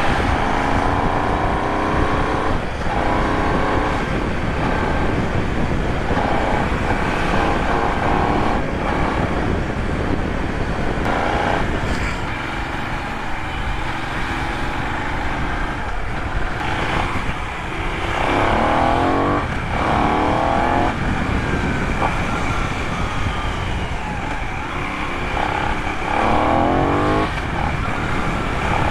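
Benelli 752 S parallel-twin engine and exhaust on the move, pulling up through the gears several times with rising pitch broken by shifts, easing back to a steadier lower note in between.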